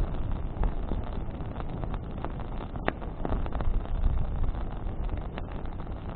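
Wood campfire burning: a steady low rumble of flames with wind on the microphone, and scattered sharp crackles and pops of burning branches, the loudest about three seconds in.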